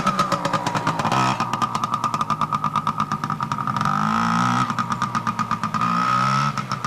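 Small dirt bike engine running with a rapid, even putter and a steady whine; the engine pitch rises briefly about four seconds in and again near the end as the throttle is opened a little.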